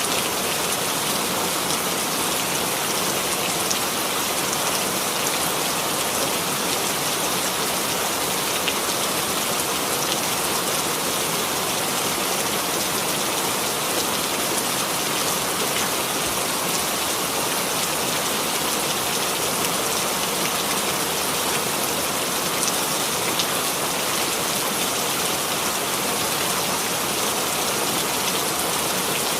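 Steady rain falling on a surface, an even hiss with fine scattered drop ticks and no change in intensity.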